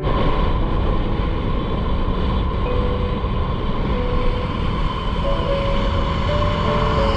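Motorcycle on the move: a steady rumble of engine, road and wind noise, unchanging throughout.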